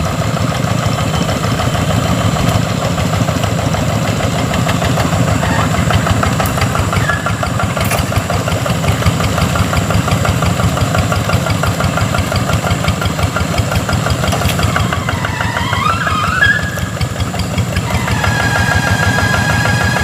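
Rice-field tractor engine running steadily with a rapid chugging beat. About 15 s in a sliding, wavering tone rises over it, and from about 18 s a steady high tone joins.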